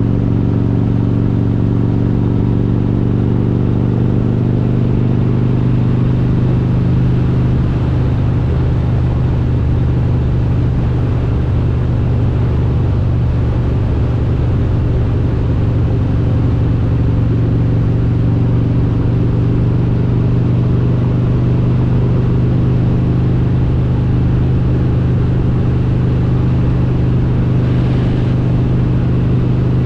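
Harley-Davidson Road King's S&S 95-cubic-inch V-twin engine running steadily under way at a constant cruise, a loud, even rumble. Its note shifts slightly about eight seconds in.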